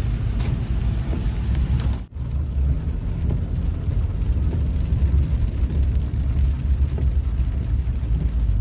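Steady low rumble of a car driving, heard from inside the cabin, with a brief break about two seconds in.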